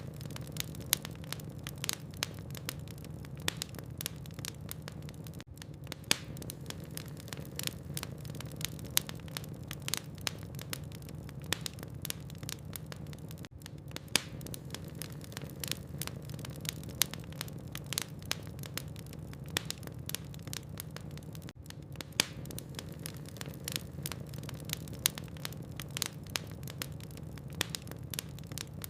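Wood fire burning in a fireplace, crackling with frequent sharp pops over a steady low hum. The sound dips briefly about every eight seconds.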